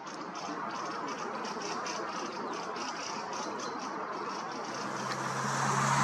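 Steady outdoor background noise with faint high chirps; near the end a road vehicle's engine hum comes in and grows louder as it approaches.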